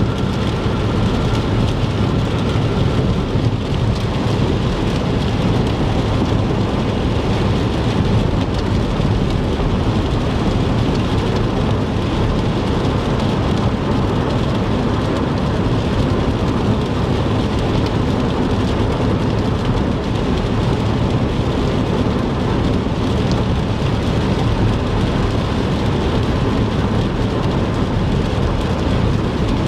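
Heavy rain pelting a car while it drives on the interstate, heard from inside the cabin over a steady low road and engine rumble. The sound is even throughout, with no distinct thunderclap.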